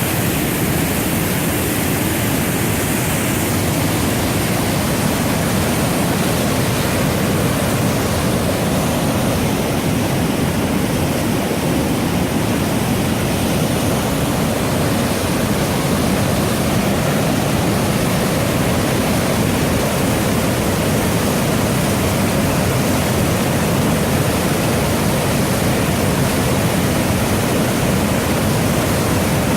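River water rushing steadily, a loud even roar of flowing water with no breaks.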